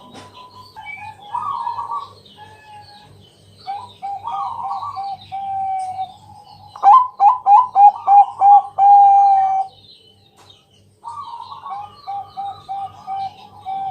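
Zebra dove (Bangkok perkutut) cooing song: repeated phrases of quick, rolling coos. The loudest phrase, about seven seconds in, is a run of quick coos ending in a long held note.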